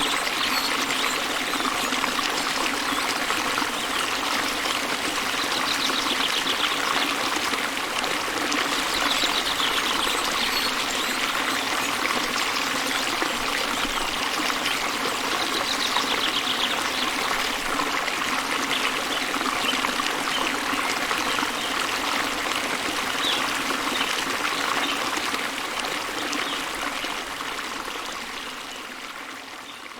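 Waterfall rushing steadily, with a few short bird chirps now and then. The sound fades out over the last few seconds.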